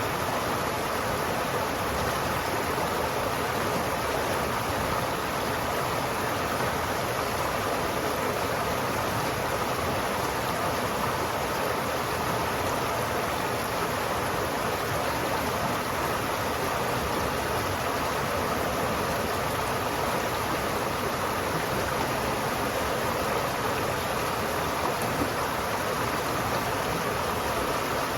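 River water flowing steadily, an even rushing with no breaks or separate splashes.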